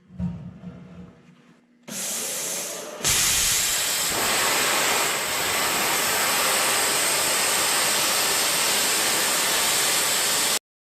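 A cutting torch on steel: a softer hiss starts, then about three seconds in a much louder, steady cutting hiss takes over and runs until it cuts off suddenly near the end.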